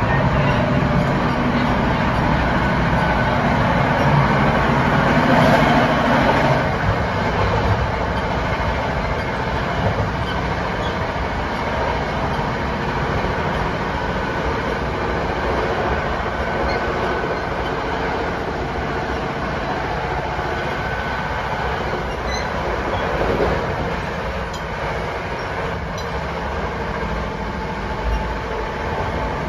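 Interior running noise of an NJ Transit Comet passenger coach at speed: a steady rumble of wheels on rail. It is louder for the first six or seven seconds, then settles evenly.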